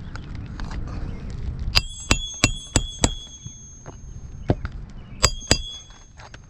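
Hammer driving roofing nails through asphalt shingles: a quick run of five sharp ringing strikes, then two more a couple of seconds later.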